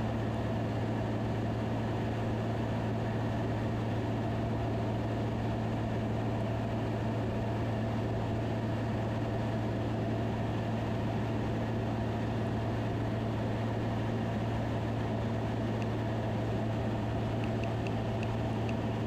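Van's RV-10 light aircraft's piston engine and propeller, a steady cockpit drone on final approach with flaps down. A few faint short high beeps near the end.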